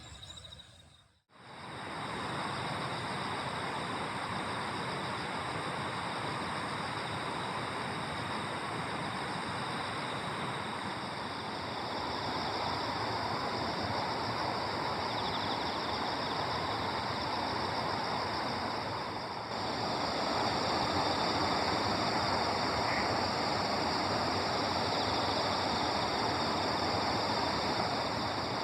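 Outdoor ambience: a steady rushing noise with insects trilling steadily in high, even tones above it. The sound cuts out briefly about a second in and gets a little louder about two-thirds of the way through.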